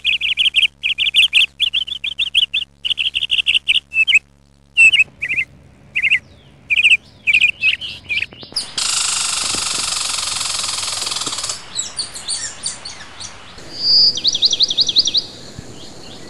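Songbirds chirping: rapid runs of short repeated chirps at first, then scattered calls and fast trilling phrases near the end. A steady hiss covers the birds for about three seconds in the middle.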